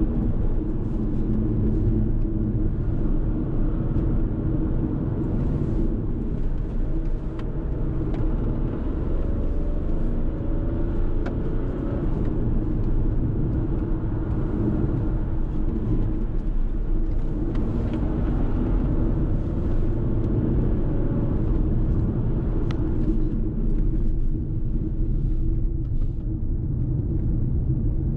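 A Fiat Tipo's 1.0-litre turbocharged three-cylinder petrol engine running while driving, over a steady rumble of road and tyre noise. The engine pitch rises gently a couple of times.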